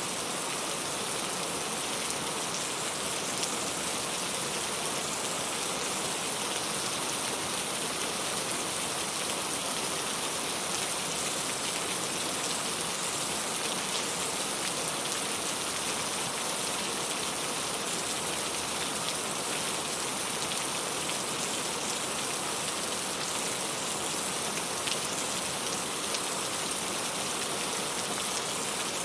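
Steady rain falling, a dense, even hiss of raindrops with a few separate drops ticking through it.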